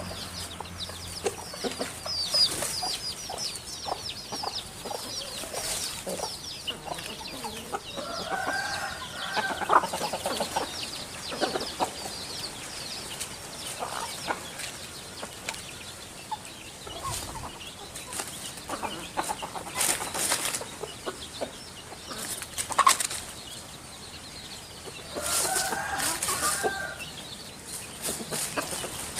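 Birds in a backyard: chickens clucking, with two louder drawn-out calls, one about a third of the way in and one near the end, over many quick high chirps from small birds and scattered sharp clicks.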